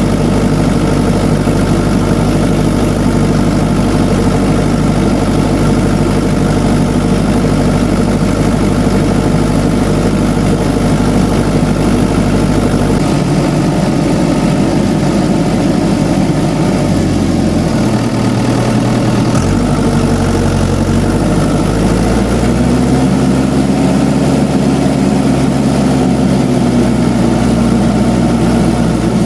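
Tractor diesel engine running steadily at low revs, its note shifting about halfway through and rising then falling gently near the end.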